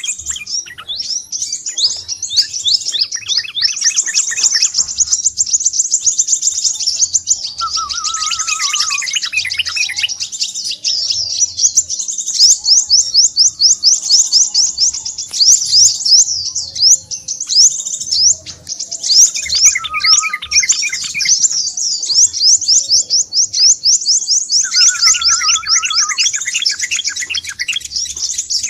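Crimson sunbird (sepah raja) calling busily: a continuous stream of rapid, high-pitched trills and chips, with lower chattering trills joining now and then, around 8, 20 and 25 seconds in.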